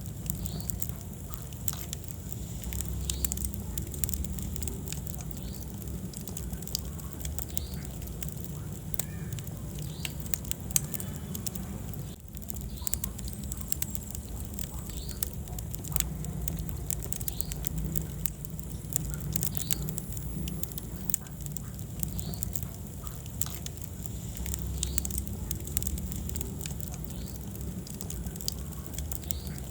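Wood fire burning in a fireplace, with frequent irregular sharp crackles and pops over a steady low rumble of flame.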